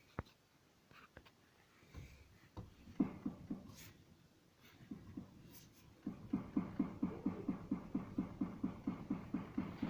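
Steering knocking, a sign of play in the steering rack or linkage: a few dull knocks, then a steady series of about five short thuds a second as the steering is rocked back and forth.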